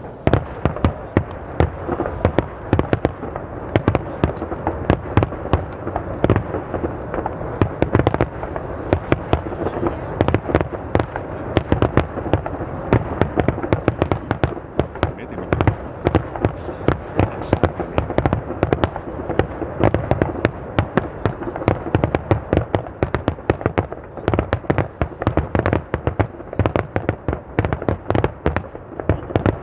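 Fireworks display: a dense, continuous barrage of shell explosions, many bangs a second with no pause.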